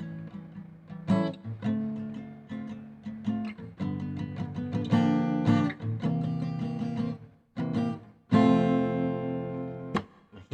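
Acoustic guitar strummed and picked in an instrumental break between sung verses, with chords ringing out and two brief gaps near the end.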